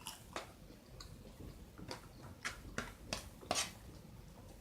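Faint chewing close to the microphone: about a dozen soft, irregular mouth clicks and smacks.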